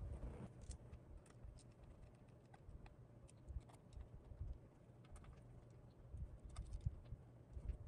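Faint, irregular small clicks and taps of keyboard parts being handled during assembly, over low handling bumps.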